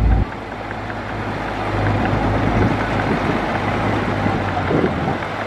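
Heavy earthmoving machinery running: a loud low engine note cuts off abruptly just after the start and gives way to a rougher, noisier engine sound whose low hum builds back up about two seconds in.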